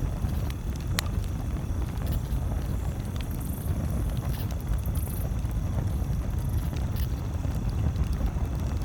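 Campfire crackling, with sharp pops every second or so, over a steady low rumble. Brief high-pitched chirps come and go a few times.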